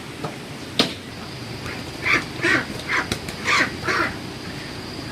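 Ducks quacking: about five short, harsh calls in quick succession in the second half, over a steady background hiss. A single sharp click comes before them, under a second in.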